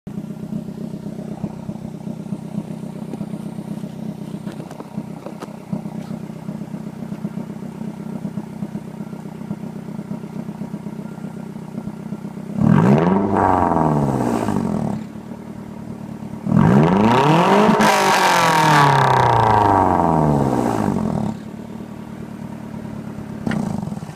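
1991 Toyota Celica GT's four-cylinder engine running through a Magnaflow aftermarket exhaust: it idles steadily, then is revved twice, the second rev held longer, each rising and falling back to idle, with a short blip near the end.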